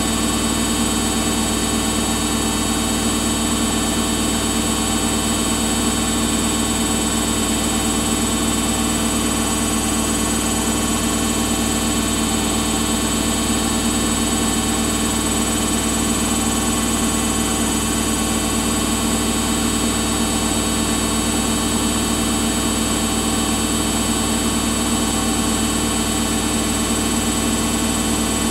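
Samsung washing machine running steadily on its Daily Wash 40 cycle: an even motor hum with a high steady whine on top.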